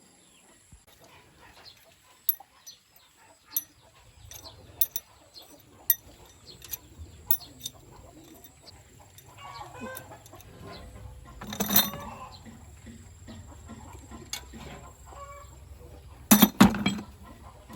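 Chickens clucking, over a string of sharp taps and a low rumble, with two louder bursts of noise, one about two-thirds of the way through and one near the end.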